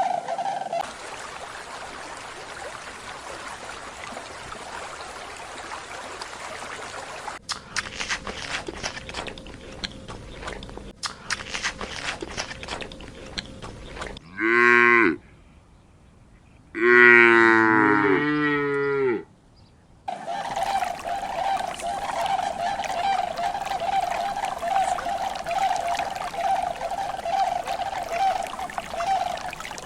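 Cattle mooing twice, a short call and then a longer, bending one, over a steady background of noise.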